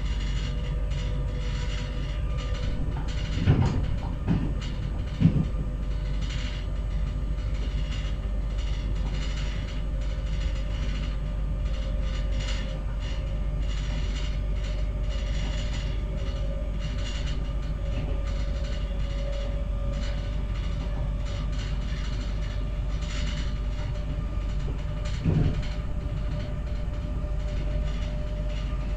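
Z 20500 double-deck electric multiple unit running along the line, heard from on board: a steady rumble with a whine that slowly rises in pitch. The wheels knock on the track three times close together a few seconds in, and once more near the end.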